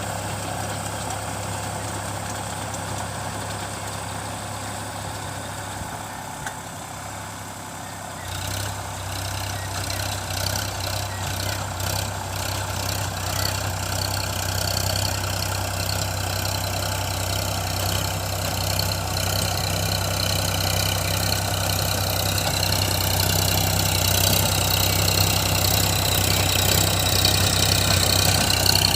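Tractor diesel engine running steadily, picking up about eight seconds in and growing gradually louder.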